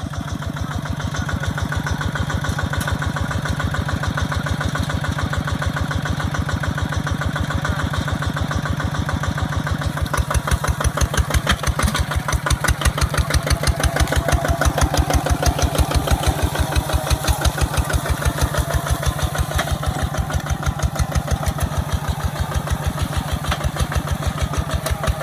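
Kubota ZT155 single-cylinder diesel engine running with a steady, fast chugging beat. About ten seconds in, the beat grows louder and more distinct, as if the engine has come under load.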